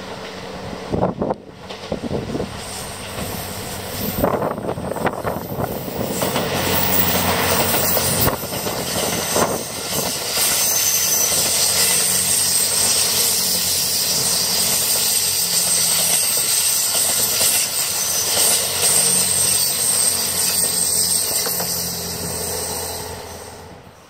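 Twilight Express Mizukaze, a JR West 87 series diesel-electric hybrid train, running past on a curve. Rail and wheel noise with a steady engine drone builds over the first several seconds, stays loud, then starts to fade near the end.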